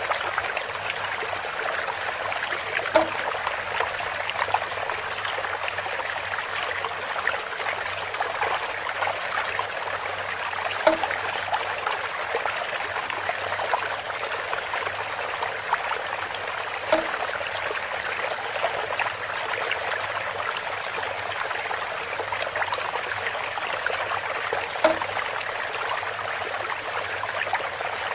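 Water running steadily from a bamboo spout, a continuous trickle and splash. A short hollow knock or plop sounds four times, roughly every six to eight seconds.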